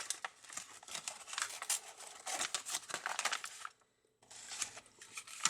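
Paper food packaging rustling and crinkling in a rapid string of crackles and clicks as a fast-food sandwich is handled and unwrapped, broken by a brief silent gap about four seconds in.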